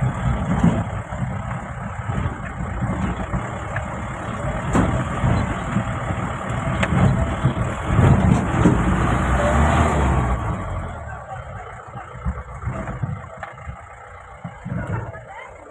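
Mahindra Bolero's engine working hard as the SUV drives over a rough off-road hill track, a dense rumble that peaks about eight to ten seconds in, then dies down.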